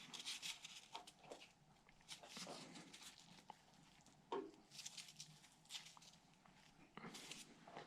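Faint, intermittent scraping and light knocks of hands working at a stuck pulley on the front of a 1950 Cadillac 331 V8 engine. The pulley is seized on its shaft and does not come free.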